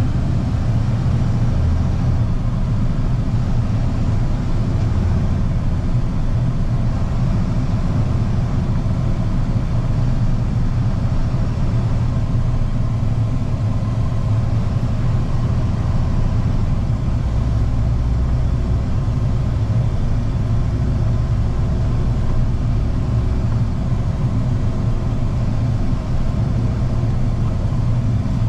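Steady low rumble of a Ford F-150 pickup's engine and road noise, heard from inside the cab while driving slowly in traffic.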